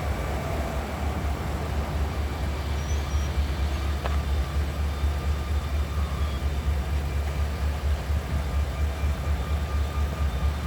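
Diesel-electric locomotive engine running steadily with a deep, even rumble and a faint steady whine above it, as the locomotive prepares to move off.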